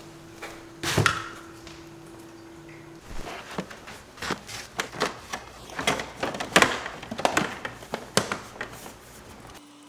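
Sharp knock about a second in, then a run of irregular clicks and knocks, roughly two a second, like parts being handled and fitted by hand. A faint steady hum lies under the start and stops about three seconds in.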